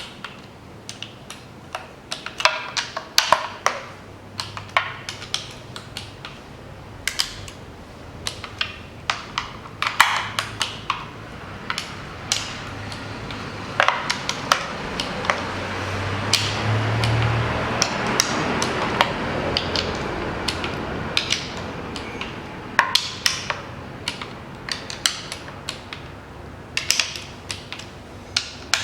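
Hand tools on metal: scattered sharp clicks and clinks of a ratchet or torque wrench and socket while the valve cover bolts of an engine are tightened to 10 N·m. A broad hiss swells and fades in the middle.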